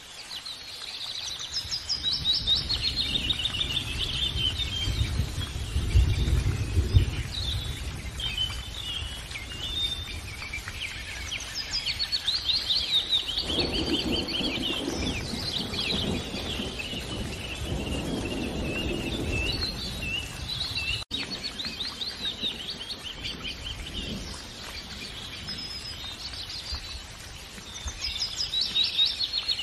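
Birds chirping in quick repeated trills, over a low rumbling background noise that swells about six seconds in.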